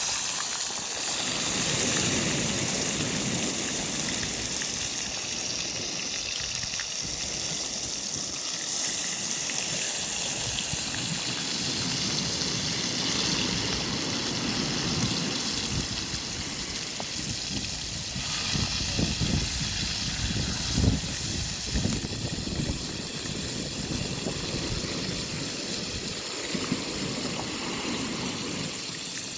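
Doves frying in hot oil in a pot over a fire, a steady sizzle with a few crackles, over a low rumble of wind and surf.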